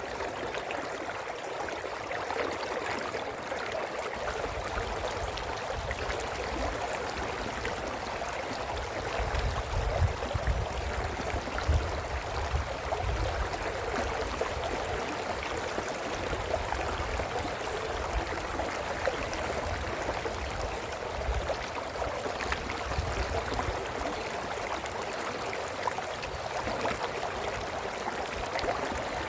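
Brook flowing: a steady babbling rush of water. A low rumble comes and goes under it from about four seconds in, strongest around ten to thirteen seconds in.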